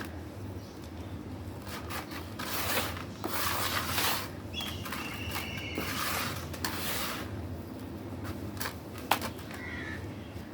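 Block of black crushable stone being crushed and crumbled, giving crunchy crackling in the middle stretch and a sharp snap about nine seconds in.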